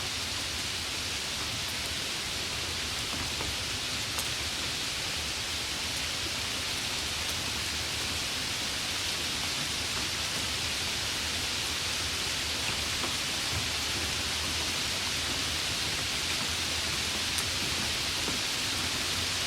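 Heavy rain falling steadily, a dense even hiss, with a couple of sharper drop ticks.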